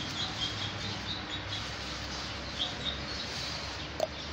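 Faint, short high chirps of a small bird repeating in the background, with one sharp click near the end.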